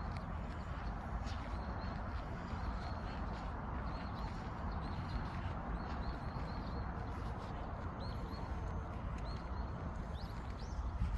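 Footsteps of a person walking, under a steady rush of wind on the microphone, with small birds chirping in short, high, repeated calls.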